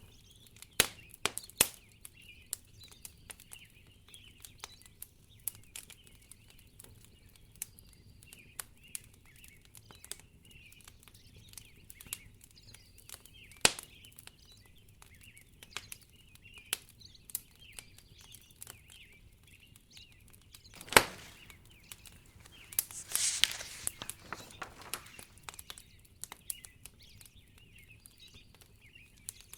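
Wood fire crackling in a fireplace, with irregular sharp pops and one louder pop about two-thirds of the way through, then a brief rush of hissing a couple of seconds later. Faint high chirping sits behind it.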